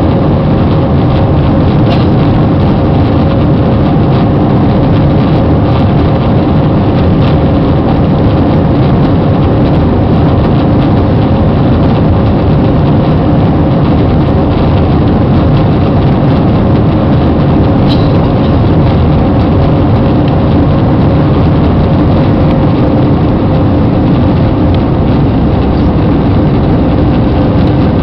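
Airbus A320 jet engines running at high power during takeoff and climb: a loud, steady roar with a faint steady whine in it.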